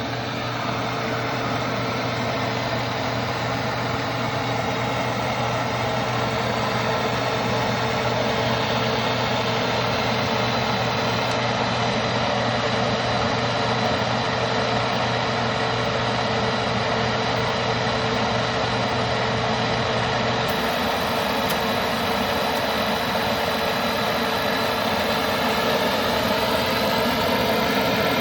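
Diesel-fired foundry furnace running at start-up: the combustion-air blower, a vacuum-cleaner motor in a sound-reducing case, whines steadily under the rush of the burner, with its air turned down low. A low hum drops out about two-thirds of the way through.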